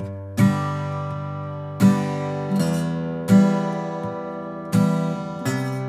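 Acoustic guitar strumming a steady four-beat campfire rhythm, a bass note on beat 1 and accented strums on beats 2 and 4, the chords ringing between strokes. Sharp strums come roughly every three-quarters of a second, the strongest about every one and a half seconds.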